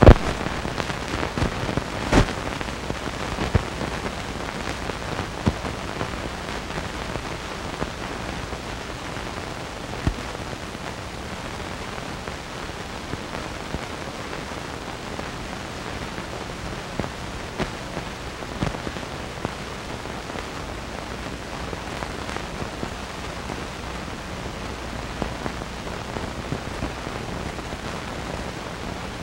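Steady hiss with scattered clicks and pops, the surface noise of an old film soundtrack; no engine or voice can be heard.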